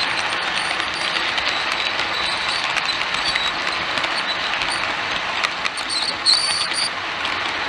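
OO gauge model trains running on the track: a steady rolling rumble with scattered clicks, and a brief high-pitched squeal about six seconds in.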